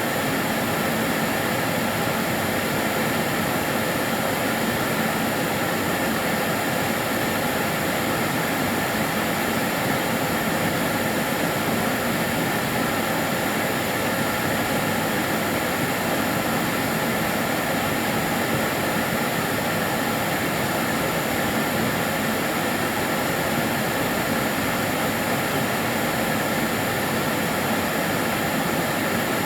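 Karcher DS 6 Premium water-filter vacuum cleaner running steadily, its motor and airflow making an even, unchanging whoosh with a few faint steady tones.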